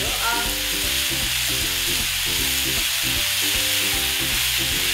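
Chopped red chillies and tomato sizzling steadily in hot olive oil in a pan as they are stirred with a spatula, with background music underneath.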